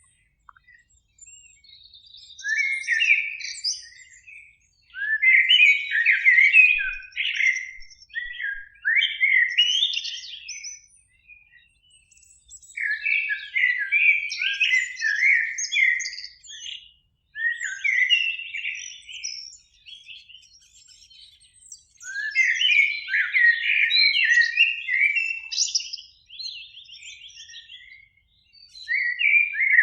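Eurasian blackbird singing: mellow whistled phrases of a couple of seconds each, several of them ending in higher, thinner twittering notes, repeated after short pauses.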